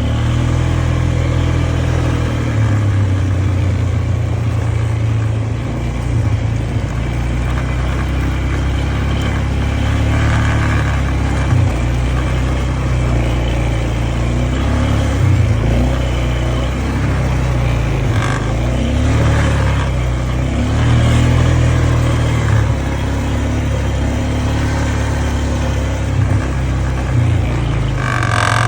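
An engine running continuously at a low, steady pitch, its revs shifting up and down now and then.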